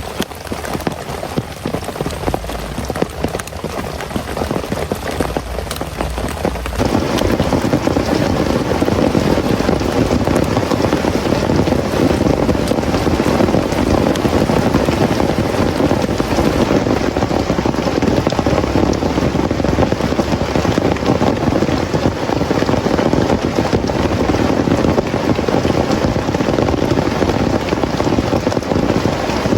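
Heavy rain. For the first seven seconds or so it is a patter of separate drops hitting a surface, then it changes abruptly to a louder, denser, steady downpour.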